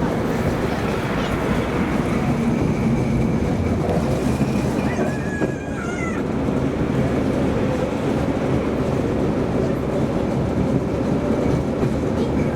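A tram running along its track, with a steady hum and rumble from the motors and wheels, heard from inside the car. About five seconds in comes a brief wavering high squeal.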